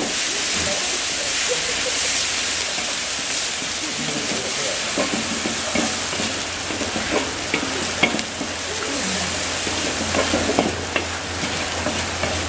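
Blended onion, shallot, garlic and chilli paste sizzling as it fries in oil in a steel wok, with a metal spoon scraping and clicking against the wok as it is stirred, more often in the second half.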